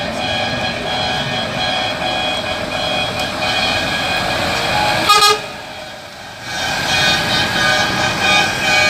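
Truck air horns sounding a sustained chord of several steady tones. They cut off sharply about five seconds in and start again a second and a half later.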